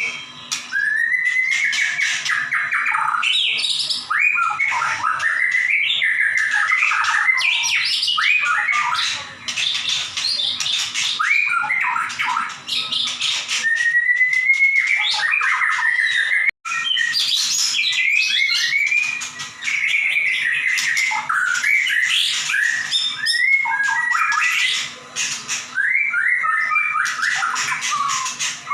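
White-rumped shama (murai batu) singing loudly and without pause in full 'gacor' song: a fast stream of varied whistles, rising and falling glides and rapid trills. The song cuts out for an instant just past halfway and carries straight on.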